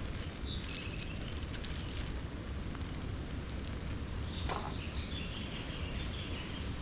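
Campfire crackling with scattered small pops over a steady low rumble, with one louder knock about four and a half seconds in and a few faint high chirps.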